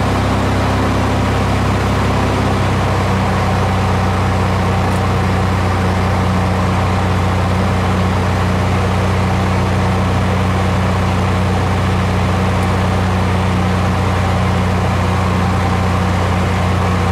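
Aircraft engine running at a steady, loud drone, heard from inside the aircraft; a few of the higher tones drop out about two to three seconds in.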